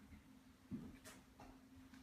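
Near silence: room tone with a faint steady low hum, one soft low thump and a faint click.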